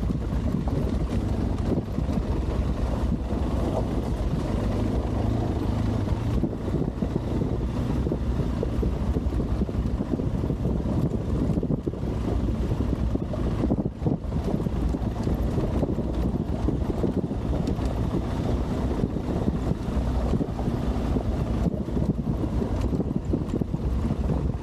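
Adventure motorcycle engine running steadily under way, with wind buffeting the microphone.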